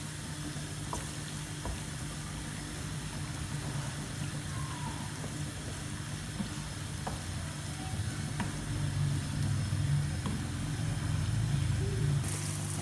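Bitter gourd and tomato slices frying gently in oil in a pan, stirred with a wooden spatula that clicks lightly against the pan a few times. A steady low hum runs underneath.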